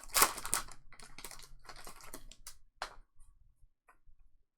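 Typing on a computer keyboard close to the microphone: a dense run of key clicks for about three seconds, then a few scattered clicks.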